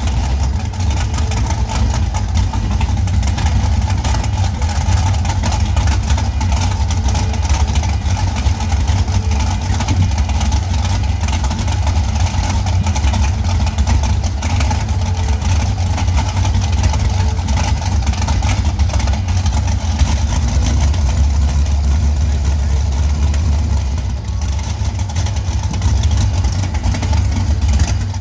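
Large old engine running steadily with a deep, heavy rumble and rapid firing pulses, cutting off suddenly at the end.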